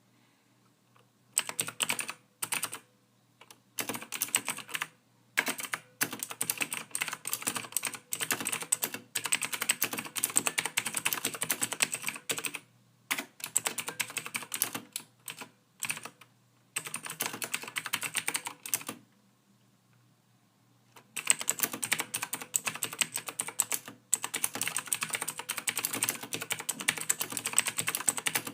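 Typing on a computer keyboard: rapid runs of key clicks in bursts of a few seconds, with short pauses between them and a longer pause before the last stretch.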